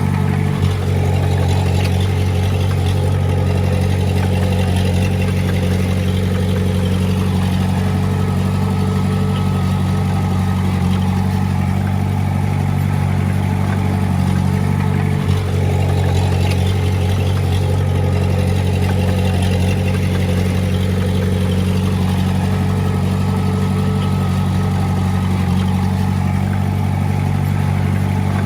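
Diesel engine of heavy earthmoving equipment running steadily at an even speed, with two brief dips about a second in and about halfway.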